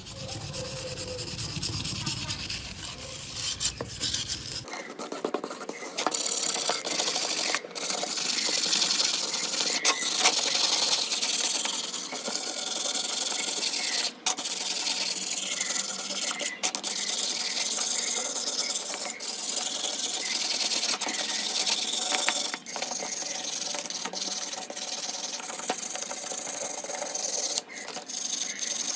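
Steady abrasive rasping of hand work, such as sanding or filing, with a few brief pauses; it grows louder and brighter about five seconds in.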